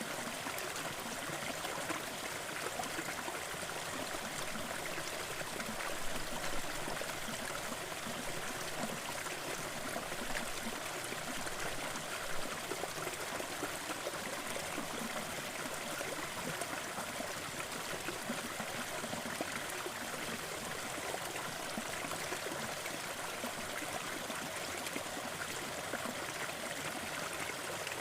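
Small waterfall splashing and trickling, a steady rush of running water.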